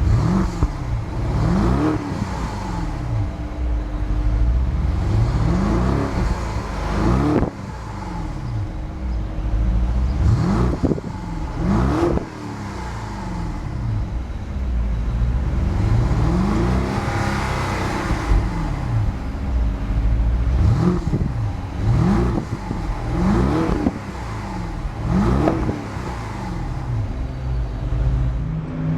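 2012 BMW Alpina B7's twin-turbo V8 being revved again and again, its pitch rising and falling about a dozen times over a steady low rumble, then settling back to an even idle near the end.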